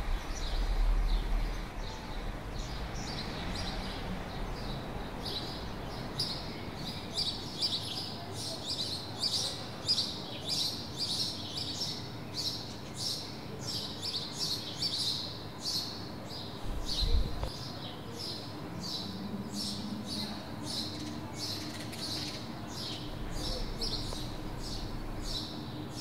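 Short, high bird chirps repeated about twice a second, growing denser from about six seconds in, over a faint steady hum of background noise. A single low bump comes about two-thirds of the way through.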